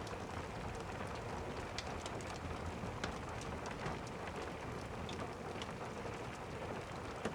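Steady rain with the scattered pops and crackles of a wood fire burning in a fireplace.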